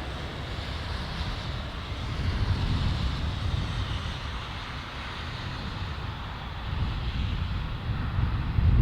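Emirates Airbus A380 jet engines heard on the wet runway as a steady rushing noise that swells about two to three seconds in. A low rumble from wind buffeting the microphone grows toward the end.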